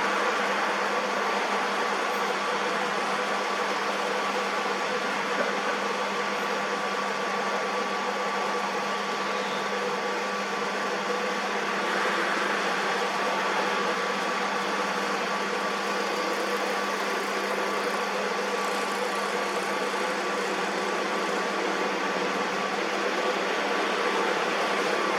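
Metal lathe running steadily: an even motor and gear hum with a few constant tones.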